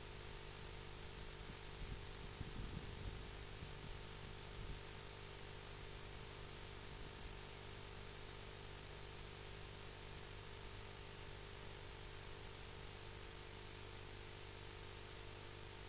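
Steady hiss with a low electrical hum, and a few soft low bumps between about two and five seconds in; no bird calls stand out.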